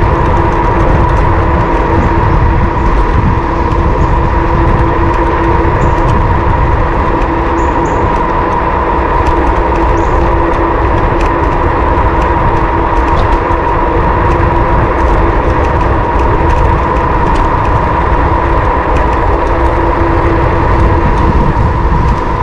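Wind buffeting the action camera's microphone on a moving electric bike: a loud, steady low rumble with a constant whine running under it, which fits the bike's electric motor.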